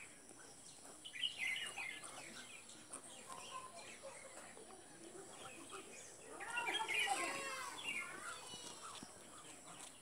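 Faint bird chirps and calls, with a louder cluster of quick gliding calls about six and a half seconds in.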